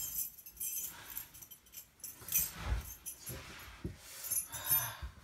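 A bunch of keys on a ring jangling as they are handled, in a few short bursts, with a couple of soft thumps.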